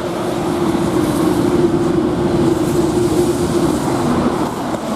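Eurostar high-speed train passing through the station at speed: a loud rushing rail noise with a steady hum that drops lower about four seconds in as it goes by.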